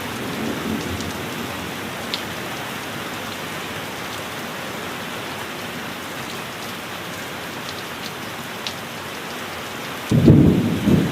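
Heavy rain falling steadily, with a few sharper drips. Near the end a clap of thunder breaks in suddenly and rumbles low.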